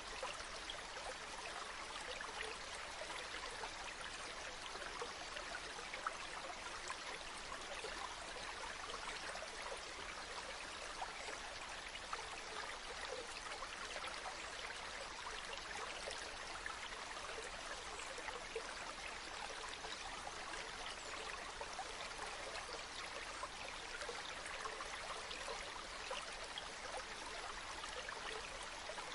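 A stream flowing steadily, an even rush of water with a fine trickling texture.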